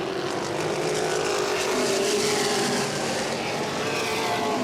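A field of modified race cars running at speed on a short oval track. Several engines sound at once, their pitches overlapping and shifting slightly as the cars circulate.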